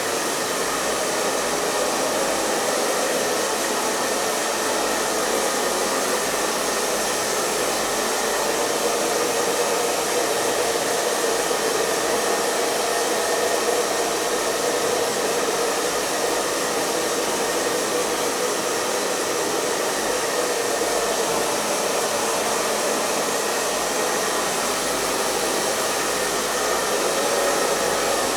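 Hair dryer running steadily: a continuous rush of blown air over the fan motor's hum, with no change in speed.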